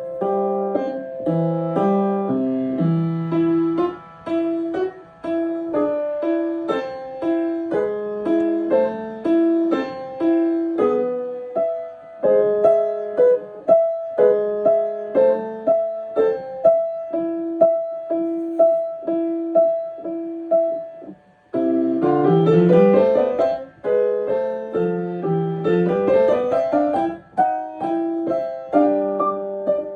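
Piano being played: a steady stream of evenly paced notes, then a brief break about two-thirds of the way through, followed by two quick rising runs.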